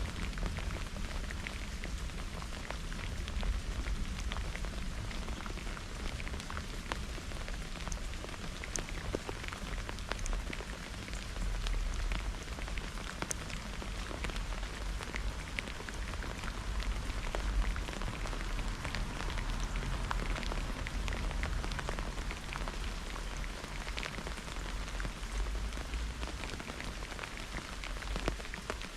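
Steady rain falling during a thunderstorm, with many separate drops ticking sharply over a constant wash of rain noise and a low rumble underneath.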